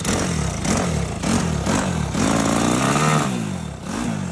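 Piranha 140 single-cylinder four-stroke engine in a Honda three-wheeler revved in quick throttle blips, rising and dropping back about twice a second. It is held at higher revs for about a second midway, then falls back and is blipped again near the end.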